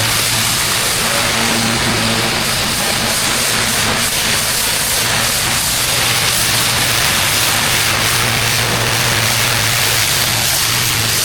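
Engine-driven pressure washer running steadily, its low engine hum under the continuous hiss of the high-pressure water jet on block paving.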